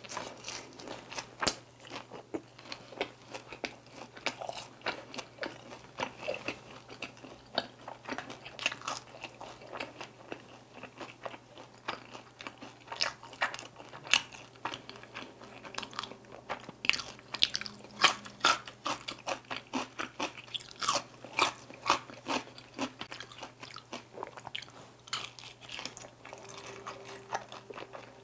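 Close-miked crunching and chewing of crispy glazed Korean fried chicken bites (dakgangjeong): many irregular crisp crunches from the mouth.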